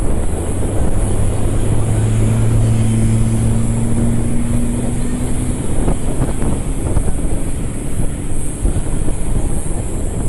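Wind on the microphone over a low traffic rumble, with a steady engine hum that fades out about six seconds in. A few faint thumps come around six seconds in.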